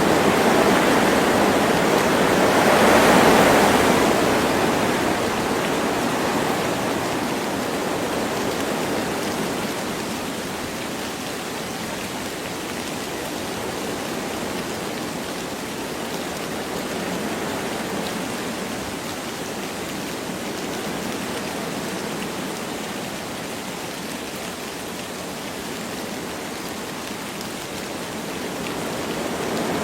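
Wind blowing through forest trees with light rain: a steady rushing noise that swells in a gust a few seconds in, eases off, and rises again near the end.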